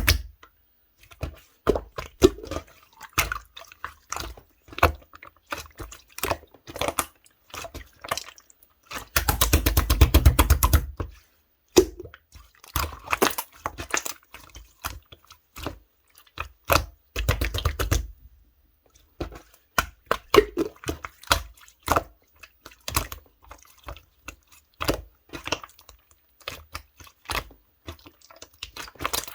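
Slime being squeezed and pressed by hand, making irregular wet, sticky clicks and pops, with two louder runs of rapid popping about nine seconds in and again about seventeen seconds in.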